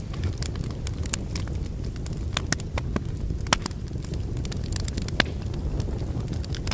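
Wood fire burning in a fireplace: a steady low rumble of flame with irregular sharp crackles and pops from the logs, a few louder snaps among them.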